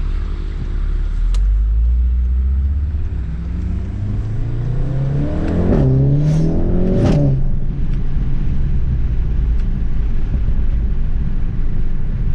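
Volkswagen Golf 7 R's turbocharged 2.0-litre four-cylinder with an Akrapovic exhaust, accelerating hard. The engine note climbs through the middle, two sharp exhaust cracks about a second apart come at the gear changes, and then it settles to a steady low drone.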